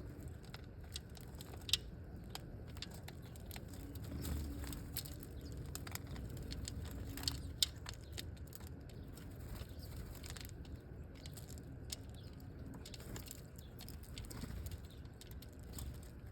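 Scattered sharp clicks and taps of birds pecking and cracking seed at a feeder, a couple of them louder, over a steady low rumble.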